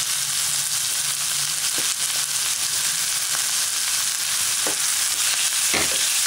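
Onions, tomatoes and spices frying in oil in a non-stick pan: a steady sizzle. A few light knocks come from the spatula, the strongest near the end as stirring begins.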